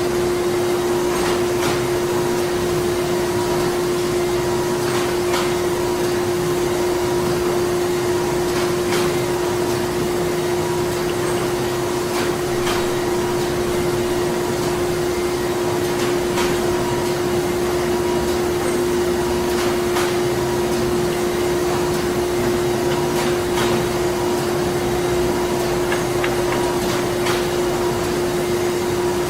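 Printing-plant machinery running steadily: a constant droning hum with a steady tone in it, overlaid by irregular sharp clicks and knocks about every second or two.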